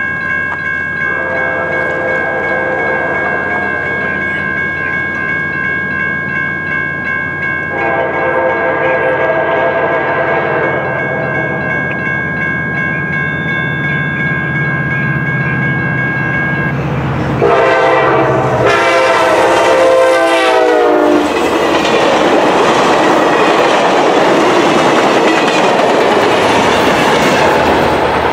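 Amtrak diesel passenger train approaching a grade crossing at speed, its horn sounding in long blasts over the steady ringing of the crossing bell. About two-thirds of the way through, the horn drops in pitch as the locomotive passes, and then comes the loud rush of the train's cars going by.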